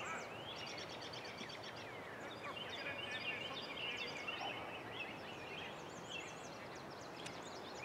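Several birds chirping and trilling at once, a busy chorus of short, high calls over a steady background hiss.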